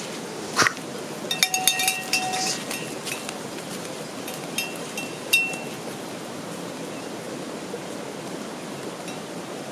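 Metal objects clinking against each other: a sharp knock, then a quick cluster of clinks with brief ringing tones, and one more ringing clink a few seconds later, over a steady outdoor hiss.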